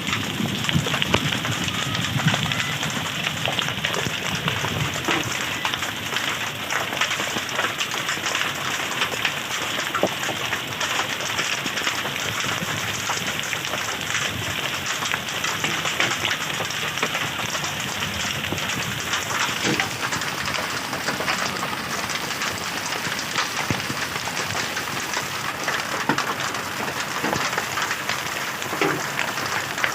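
Hail and heavy rain pelting down steadily: a dense hiss of falling rain with many sharp little clicks of hailstones striking.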